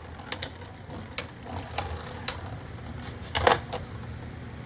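Two Beyblade Burst spinning tops battling in a plastic stadium: a low steady whir under irregular sharp plastic clacks as they strike each other, with a louder cluster of hits about three and a half seconds in.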